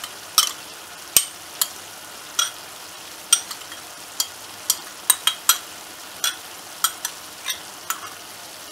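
Chicken mince with tomatoes and spices frying in a hot pot, yogurt just added: a steady low sizzle broken by sharp crackling pops at an irregular pace, about two a second.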